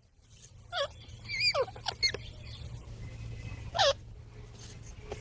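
Parrot giving a handful of short, squeaky calls that slide down in pitch, the loudest about four seconds in, over a steady low rumble.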